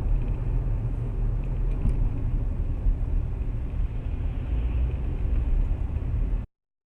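Steady low rumble of a car on the move, engine and road noise, with no clear impact; it cuts off suddenly near the end.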